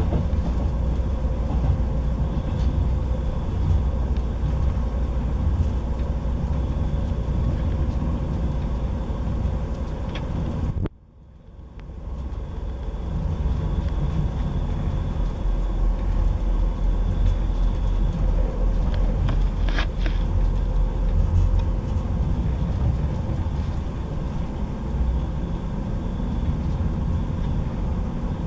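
Cabin running noise of a Class 158 diesel multiple unit at speed: a steady low rumble of wheels on the rails and the train running. The sound cuts out abruptly about eleven seconds in, then fades back up within a couple of seconds.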